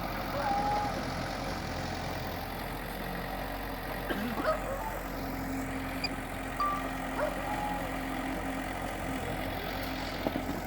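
Bulldozer's diesel engine running steadily at low revs, with a few short high chirps and clicks over it.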